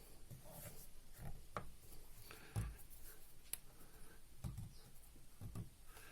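Faint handling noises of small injector parts: light rubbing with a few scattered clicks and knocks, one a little louder about two and a half seconds in.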